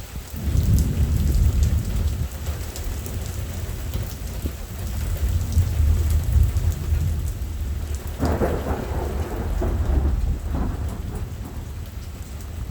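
Thunder rolling in a long low rumble that begins about half a second in, breaking into a brighter crackling peal about eight seconds in, over steady rain.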